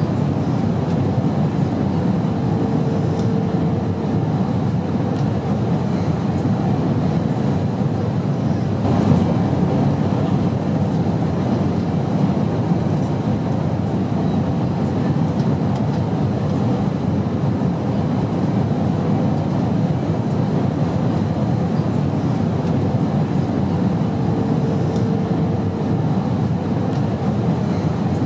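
Steady, unbroken airplane drone: an even rumbling rush with a faint hum showing briefly twice.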